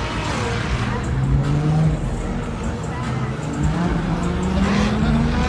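A car engine revving, its pitch climbing steadily through the second half, amid talking voices.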